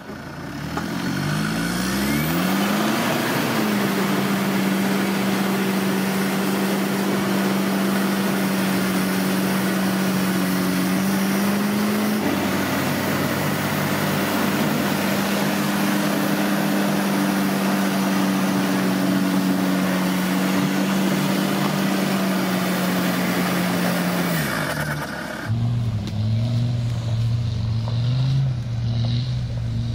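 Off-road 4x4 engine revving up and held at high revs for about twenty seconds under loud noise, then dropping back to lower, uneven revs near the end.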